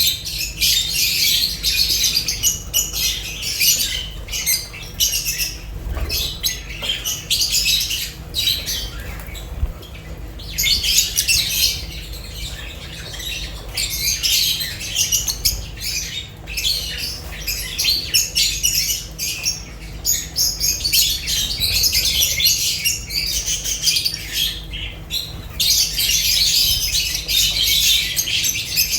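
Lovebirds chattering and squawking, a dense run of rapid high calls that comes in waves a few seconds long with brief lulls between.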